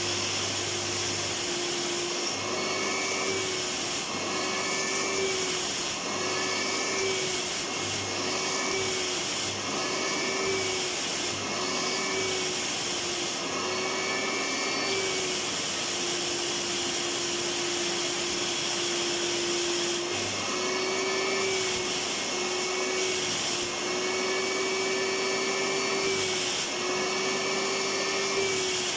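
Vacuum cleaner running continuously, its motor hum wavering slightly in pitch about once a second, then holding steady for a few seconds midway.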